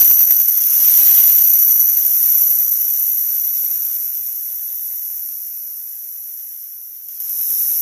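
A 'wah wah' sound effect sped up so many times that it has turned into high-pitched static hiss. It fades slowly over several seconds, and a fresh burst starts near the end.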